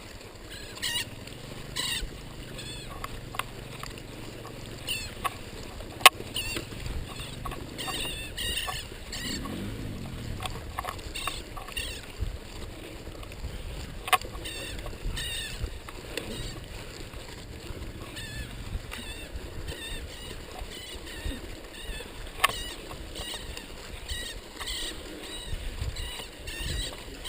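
Mountain bike ridden along a dirt cross-country trail: tyres rolling and bike parts rattling, with short high chirps throughout and three sharp knocks from bumps.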